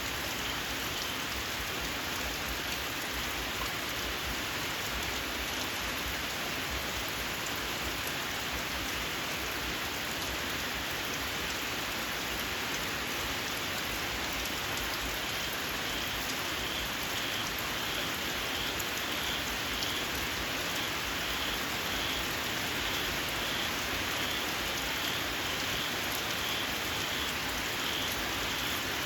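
Steady rain falling. From about halfway through, a small frog's shrill call repeats about twice a second over it.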